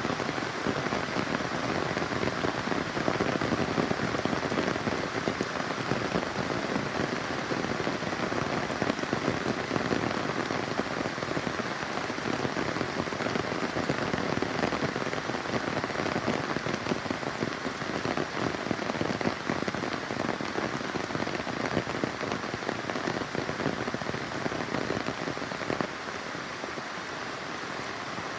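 Steady rain falling on surfaces, a dense, even hiss of countless drops that eases slightly near the end.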